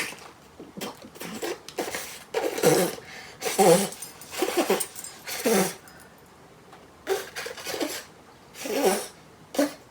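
A man's wordless groans and sharp breathy noises in a string of short bursts, his disgusted reaction to a mouthful of chewing tobacco.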